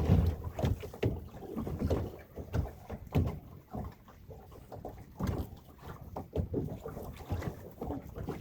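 Irregular knocks and thumps around a small fishing boat, the loudest right at the start, with some low wind rumble.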